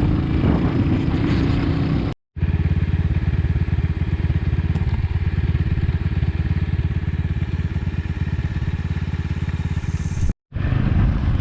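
Motorcycle engine running steadily under way, with a rapid even pulse of firing strokes. The sound drops out abruptly for a moment twice, about two seconds in and near the end.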